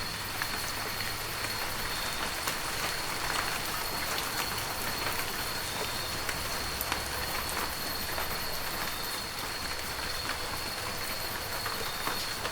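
Heavy rain falling steadily, a dense hiss of drops with scattered sharper drop hits, a faint low rumble beneath it in the middle of the stretch.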